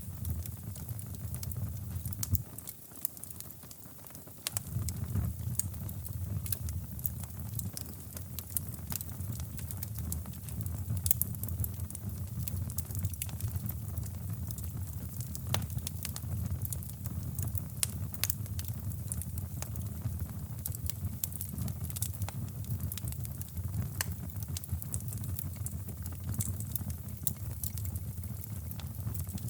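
Wood fire crackling in a fireplace, with irregular sharp pops and snaps, over a steady low rushing brown noise. The low noise drops away for a couple of seconds a few seconds in, then returns.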